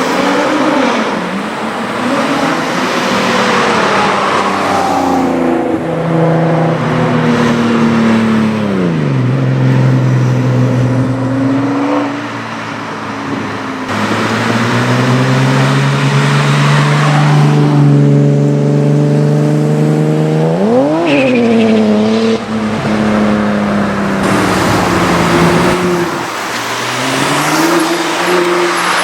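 Supercar engine running and revving, its pitch stepping up and down and holding steady low notes for several seconds, with one sharp rev blip about three-quarters of the way through.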